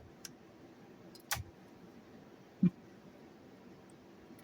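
A few sharp clicks from the control switches of a 1965 Record-O-Fone answering machine being switched between modes, the strongest about a second in, followed a second later by a short low blip.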